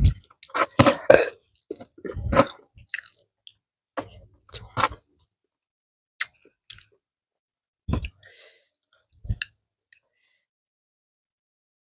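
A person chewing a mouthful of fried shrimp and rice close to a clip-on microphone: a dense run of chewing for the first three seconds or so, then scattered single bites and mouth sounds.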